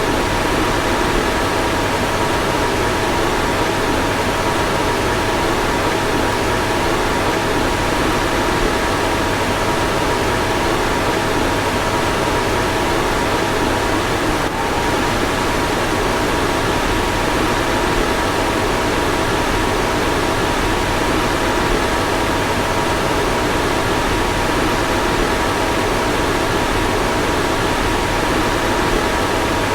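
Car fan running steadily: an even rushing noise with a faint steady two-note hum, and a brief dip about halfway through.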